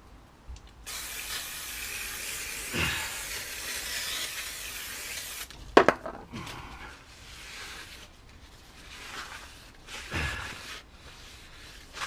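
Aerosol brake cleaner spraying in one long hiss of about four and a half seconds, douching the new brake disc to strip its coating. A sharp knock follows, then kitchen towel rubbing over the disc.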